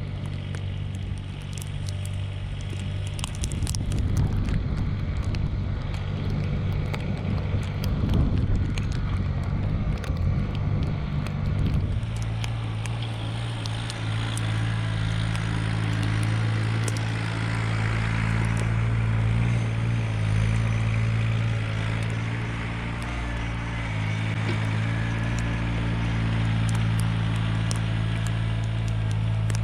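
Mahindra eMax 20S compact tractor's small three-cylinder diesel running steadily under work. Its note shifts and settles about twelve seconds in.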